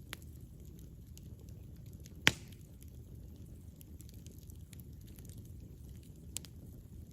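Wood campfire burning with a low steady rumble and scattered crackles, with one loud sharp pop about two seconds in and a smaller pop near the end.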